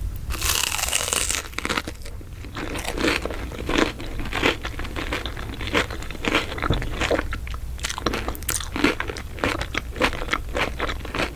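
Toast topped with scrambled egg being bitten and chewed close to the microphone: irregular crisp crunches, several a second, over a low steady hum.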